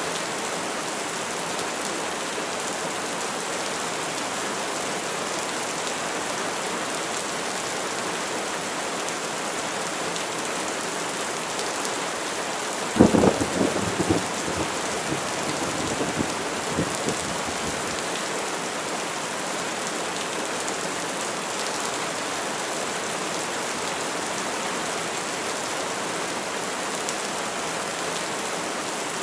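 Steady rain falling. About halfway through, a sudden thunderclap cracks, then rumbles on unevenly for about four seconds before the rain is left alone again.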